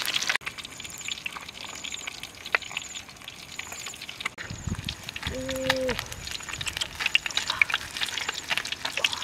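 Whole fish frying in oil in a wok, sizzling and crackling at the start and again in the last couple of seconds. In the quieter stretch between, a faint high chirp repeats about twice a second, and a short low hum-like call sounds once about halfway through.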